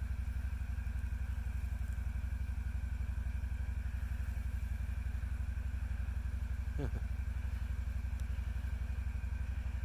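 An engine idling steadily, with a rapid, even pulse that never changes speed; it cuts off suddenly at the very end.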